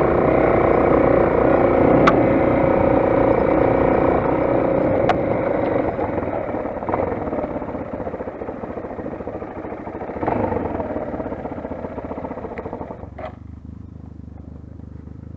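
Motoland XR 250 dirt bike's single-cylinder engine running steadily under way, then easing off as the bike slows. About 13 seconds in it drops to a low idle, with a few sharp clicks along the way.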